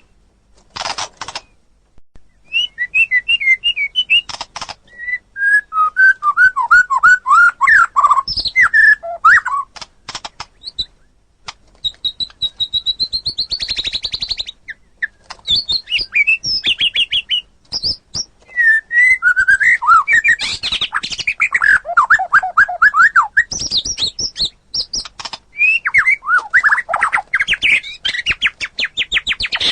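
White-rumped shama (murai batu) in full, vigorous song: a fast string of varied phrases of clear whistles, rapid trills and sharp clicking notes, broken by short pauses.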